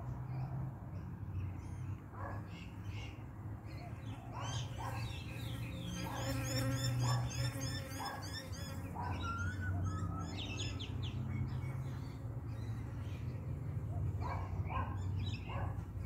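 Birds chirping over a steady low hum: a rapid run of high chirps about six seconds in, lasting a few seconds, with scattered shorter calls before and after it.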